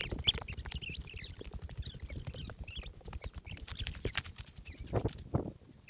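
Footsteps crunching over dry twigs and forest litter, a dense run of small cracks and crackles.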